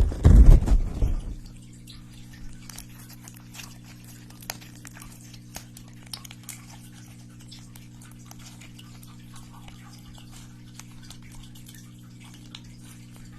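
Close-miked ASMR trigger sounds: a loud rustling thump in the first second, then faint scattered taps and clicks over a steady low electrical hum.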